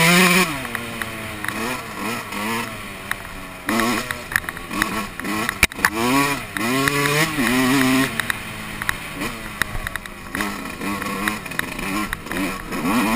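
Yamaha YZ125 two-stroke single-cylinder motocross engine revving up and falling back again and again as the rider accelerates and backs off along the trail. A sharp click comes about halfway through.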